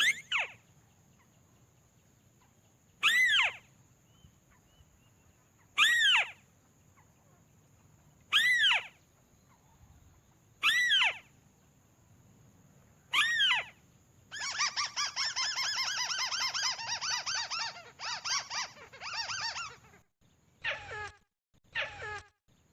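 Crake calls: six loud descending calls about every two and a half seconds, then a fast rattling run of notes lasting about six seconds, followed by a few short calls.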